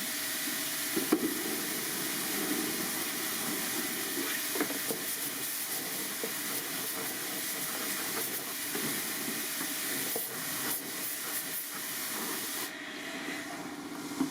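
A steady spraying hiss with a few light knocks. The upper part of the hiss drops away near the end.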